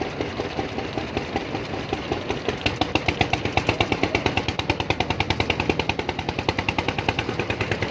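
A small engine running with a fast, even beat.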